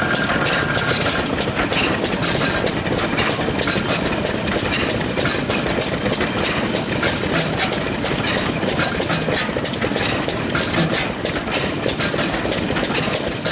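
Vintage stationary engines running, a steady chugging made up of many closely spaced firing knocks.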